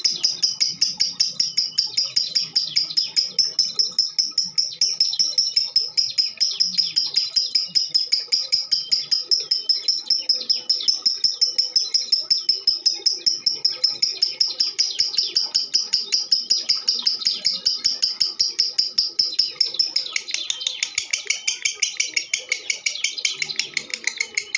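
Female lovebird chirping in a rapid, unbroken stream of high, sharp notes, about five a second. Around twenty seconds in, the chirps drop lower in pitch and carry on at the same pace.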